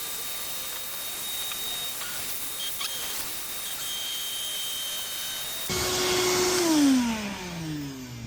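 Shop vac used as a blower to inflate a truck-bed air mattress: a steady rushing with a thin high whine. Near the end it grows louder, then the motor winds down with a steadily falling pitch.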